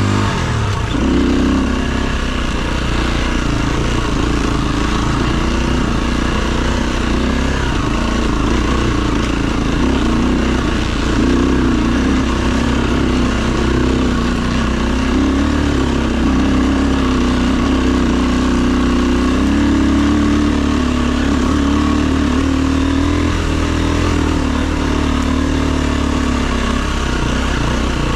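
Enduro dirt bike engine running as the bike is ridden off-road, its note rising and falling a little with the throttle.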